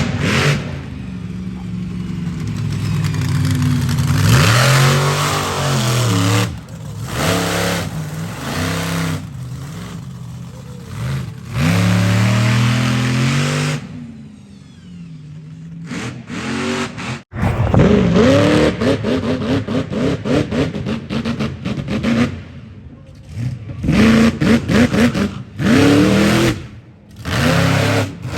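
Monster truck engines revving hard, the pitch climbing and falling with each stab of the throttle. In the second half the revving turns into fast, repeated throttle blips.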